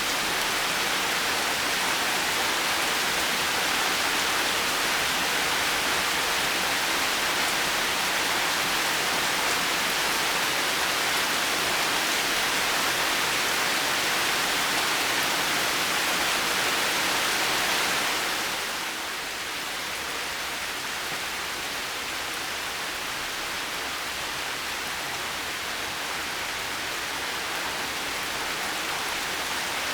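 Heavy rain falling in a steady, dense hiss. About 18 seconds in it softens a little, then slowly builds again near the end.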